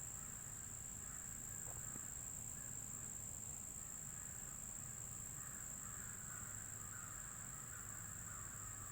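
Faint outdoor ambience: a steady, high-pitched insect trill, typical of crickets, with crows cawing faintly in the distance.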